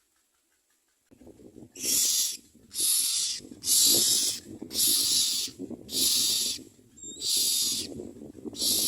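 Myna nestlings begging for food: a run of harsh, hissing calls, each under a second long and about one a second, starting about a second in, over a low rustling in the nest.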